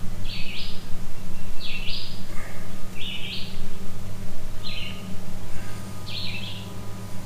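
A bird calling over and over, a short rough note about once a second, over a steady low hum.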